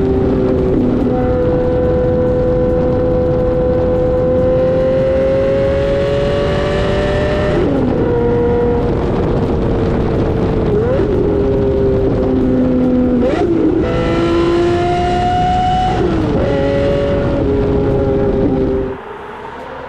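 Lamborghini Murcielago SV's 6.5-litre V12 under way. The engine note climbs steadily and then drops or jumps abruptly several times as it changes gear. It turns much quieter about a second before the end.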